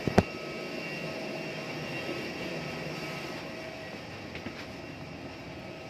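Steady whine and rumble of a jet airliner running on the ramp, with one sharp knock just after the start.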